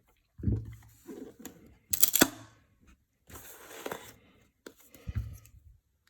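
Trading-card packaging being handled and torn open: irregular crinkling and tearing, loudest about two seconds in with a sharp click, and a few dull bumps.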